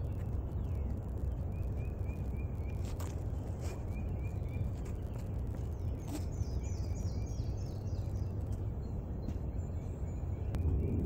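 Songbirds calling in short runs of quick repeated chirps, and later a falling series of higher notes, over a steady low outdoor rumble. A few sharp clicks sound now and then.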